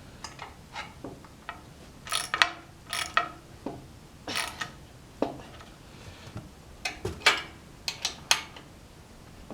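Ratchet wrench clicking in short irregular bursts, with pauses between strokes, as a bolt is tightened down hard.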